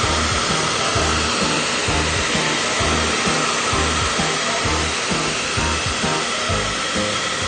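Kireii 1500 W hair dryer running steadily: a loud, even rush of air with a constant motor whine. Background music with a steady bass beat plays underneath.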